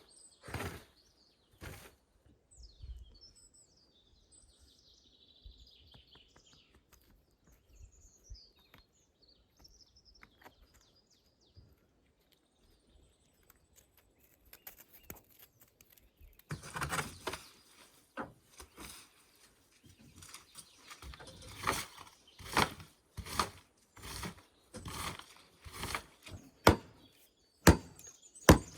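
Small birds chirping in the first half. From a little past halfway, a run of sharp, irregular chopping strikes on wood, growing louder toward the end.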